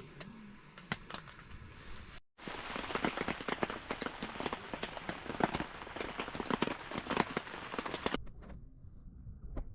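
Gopchang (beef intestines) sizzling in a hot pan, a dense crackle with many sharp pops of spitting fat. It starts suddenly about two seconds in and cuts off abruptly near the end.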